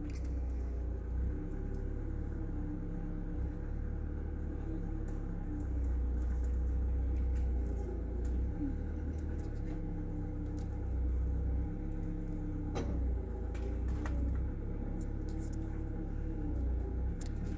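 Low, steady engine-like rumble that swells and eases slightly, with a steady hum and a few faint clicks.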